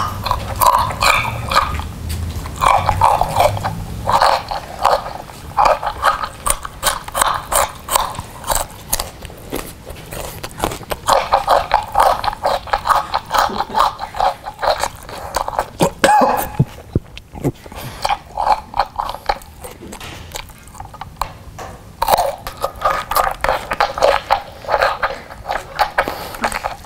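Loud chewing and crunching of food, amplified through a handheld megaphone held to the mouth, in quick runs of crunches with a quieter spell past the middle.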